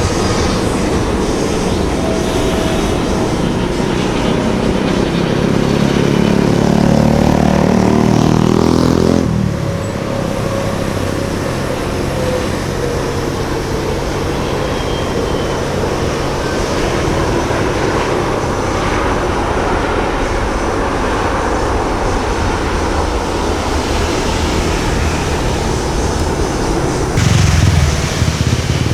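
Jet airliner engine noise, loud and continuous. A louder swell with falling pitch builds from about five seconds in and breaks off abruptly near nine seconds, leaving a steadier rumble. A fresh loud low rumble starts near the end.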